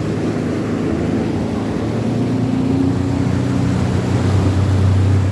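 Jet ski engine running steadily, its low drone growing a little louder and stronger towards the end.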